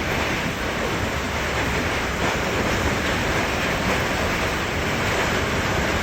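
Hail storm: hailstones pelting down in a dense, steady rush of noise.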